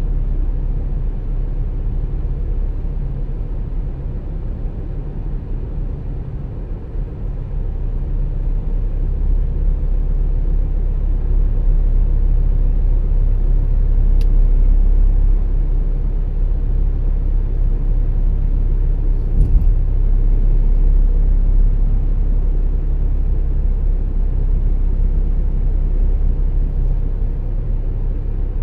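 A car driving along at speed, with a steady low rumble of tyres and engine that grows a little louder about ten seconds in.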